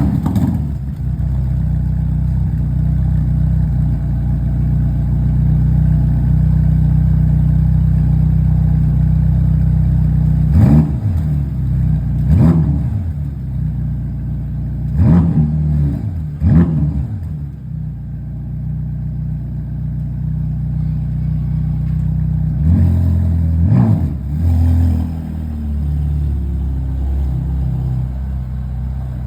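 Ferrari Roma's twin-turbo V8 exhaust idling steadily just after start-up. The idle is broken by six quick throttle blips that rise and fall, heard in three pairs: about ten, fifteen and twenty-three seconds in.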